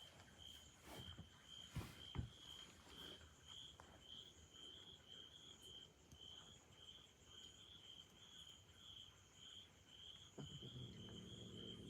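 Faint insect chirping: short high pulses repeating steadily about twice a second, with a couple of soft clicks.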